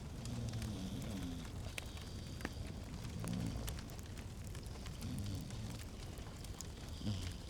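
Log fire crackling in a fireplace: scattered sharp pops over a steady low rumble, with a soft low tone swelling every couple of seconds.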